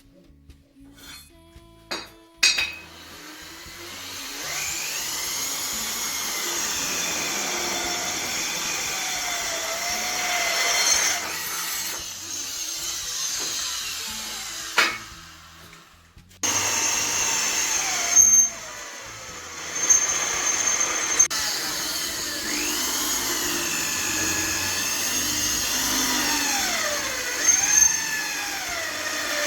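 Electric drill drilling holes, its motor whine wavering up and down in pitch as the bit bites. It runs for several seconds, drops away for a few seconds about halfway through, then starts again with a sharp click.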